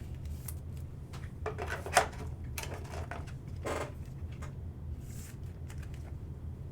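Trading cards and their plastic holders being handled: a few light clicks and scrapes, with one sharper click about two seconds in, over a steady low hum.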